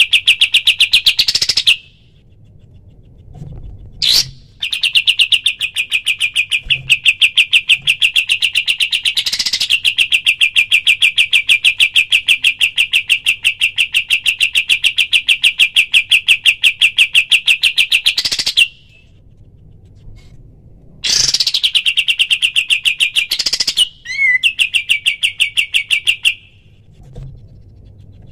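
Kapas tembak songbird giving its rapid-fire 'tembakan' song: one high note repeated many times a second in long trills. Three bursts run, the middle one about fourteen seconds long, separated by short pauses.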